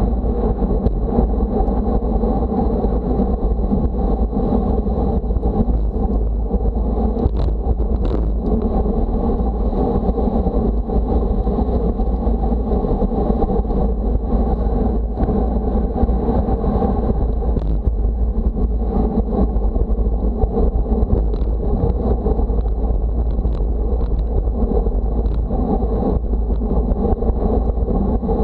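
Wind buffeting the microphone of a camera on a bicycle riding at speed: a loud, steady low rumble mixed with rolling road noise.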